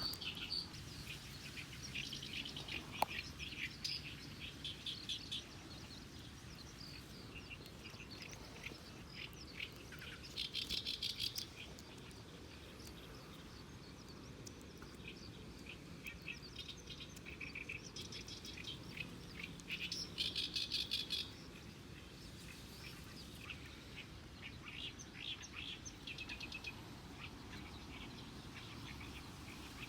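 Wild birds chirping and chattering in quick, rapid-fire calls. Two louder chattering trills about a second long stand out, around ten seconds in and again around twenty seconds in.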